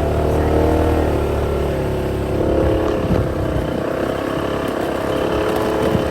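Motorcycle engine running under way, its pitch rising and falling with the throttle, with heavy low rumble that eases about two seconds in.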